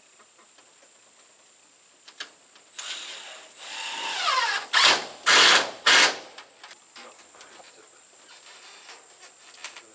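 Cordless drill driving a roofing screw: the motor whirs for a second or two, its pitch falling as the screw bites, then three loud short bursts as it drives home.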